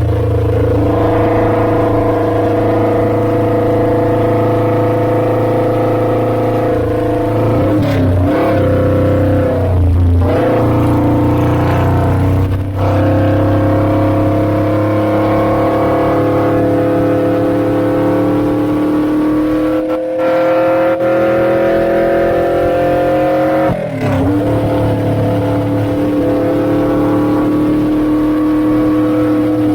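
Suzuki GS400's air-cooled parallel-twin engine running through an aftermarket Pretty Racing exhaust while the bike is ridden. Its pitch drops and recovers at several brief gear changes, and it climbs slowly in one long pull before the last change.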